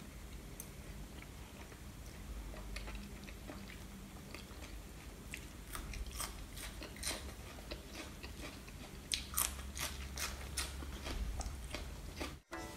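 Close-up chewing of a mouthful of raw salmon marinated in fish sauce: soft, wet mouth clicks that come more often and a little louder in the second half.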